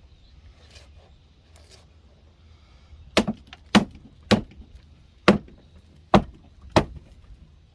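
Six sharp hammer blows on old wall framing timber, uneven in spacing, in the second half. The old wood proves fairly solid under the blows.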